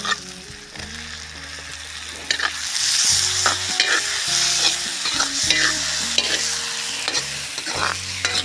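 Onions frying in hot oil in a pan over a wood fire, sizzling steadily, with a spoon stirring and clicking against the pan. The sizzle grows louder about two seconds in.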